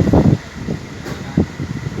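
Wind buffeting the microphone in irregular low gusts on a ferry's deck, strongest in the first half second.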